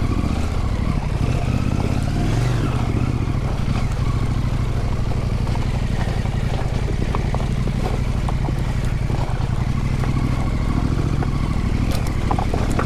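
Husqvarna Norden 901 adventure motorcycle's parallel-twin engine running at a low, steady throttle as the bike rides along a creek bed.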